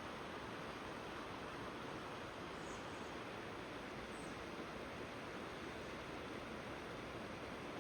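River water flowing with a steady rushing noise. A few faint, very high chirps come about three and four seconds in.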